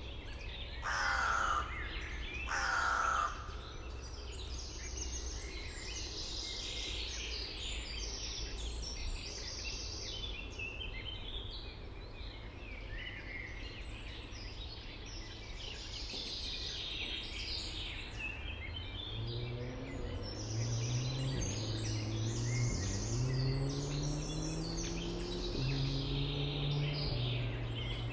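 A chorus of songbirds singing, with two loud, harsh crow caws about a second and three seconds in. Over the last third a low droning hum with wavering pitch runs underneath the birdsong.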